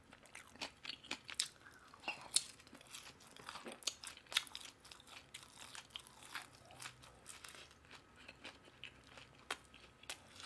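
Close-miked crunching and chewing of fried chicken: many short, irregular crisp crunches and mouth sounds, fairly faint.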